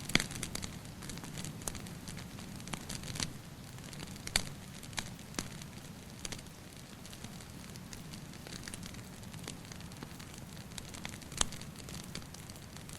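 Wood fire crackling, with irregular sharp pops over a steady low rumble of burning; the loudest pops come right at the start, about four seconds in and near the end.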